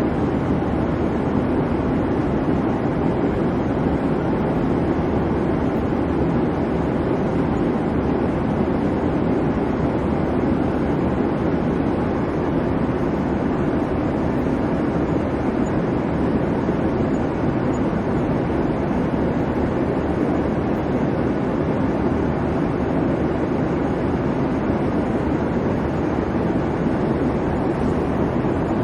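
Steady airliner cabin noise: the engines and airflow make a constant, unchanging rumble, heaviest in the low and middle range.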